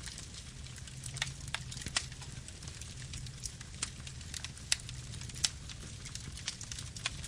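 Campfire burning: irregular sharp crackles and pops from the burning wood, several a second, over a steady low rumble of the flames.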